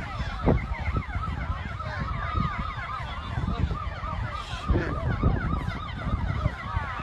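Several emergency-vehicle sirens sounding at once, their fast rising-and-falling wails overlapping, over low wind rumble on the microphone.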